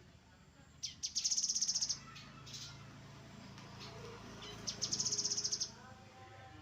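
Grey-headed canary-flycatcher calling: two rapid, high, buzzy trills, each about a second long, the second coming about three seconds after the first.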